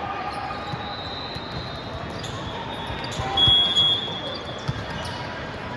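Game sounds in a gymnasium: a few ball or body thuds and a brief sneaker squeak on the court over a steady hall murmur, with a louder burst about halfway through.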